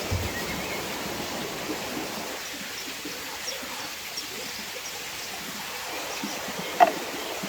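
Steady rushing of flowing water, with one sharp knock near the end.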